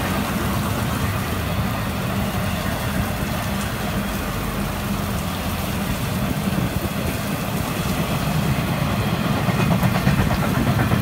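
Intermodal freight train's container cars rolling past, a steady rumble of wheels on rail, with heavy rain falling.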